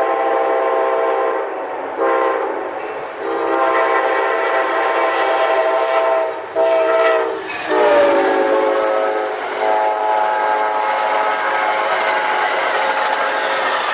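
A freight locomotive's air horn sounds a chord in several long blasts with short breaks between them. The pitch drops about eight seconds in as the locomotive passes. Rail noise from the passing train runs underneath.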